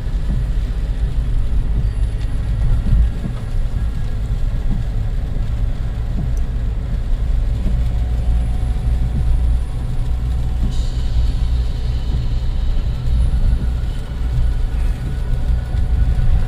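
Steady low rumble of engine and tyres inside the cabin of a Suzuki Jimny being driven along a road.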